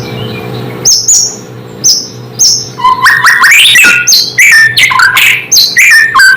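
White-rumped shama (murai batu) singing: a few short high whistles, then from about three seconds in a fast, unbroken run of varied whistled notes sweeping up and down.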